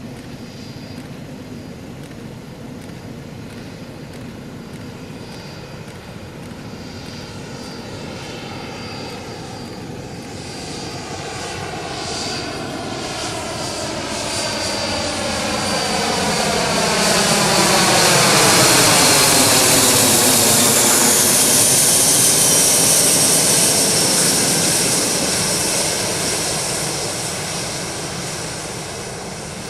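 Twin-turboprop Yak-40 testbed flying past: its engine and propeller sound grows louder as it approaches, is loudest a little past the middle, then fades as it moves away, with a high whine that shifts in pitch as it passes.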